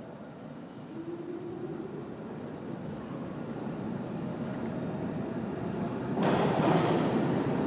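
New York City Redbird subway train approaching through the station: a rumble grows steadily louder, with a faint rising whine from about a second in. About six seconds in, the noise jumps suddenly louder as the train comes in.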